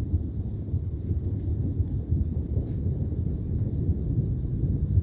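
Crickets chirping steadily in an even, high-pitched pulse over a loud, steady low rumbling noise, on a summer night during a thunderstorm.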